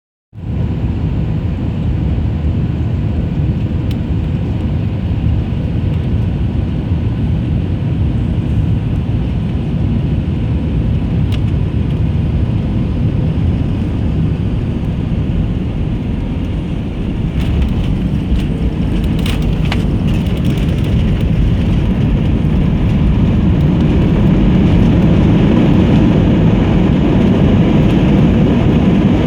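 Airliner cabin noise during the approach for landing: a steady roar of engines and rushing air, growing louder over the last few seconds, with a few faint clicks about two-thirds of the way through.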